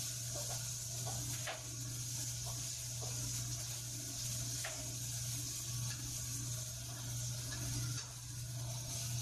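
Garlic stir-frying in oil in a wok, a steady sizzle over a steady low hum, with a few light clicks of the spatula against the wok.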